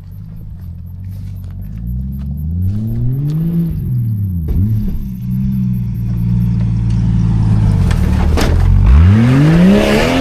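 Old Jeep Cherokee's engine revving up and down several times, getting louder toward the end, as it struggles for grip on worn old mud tyres.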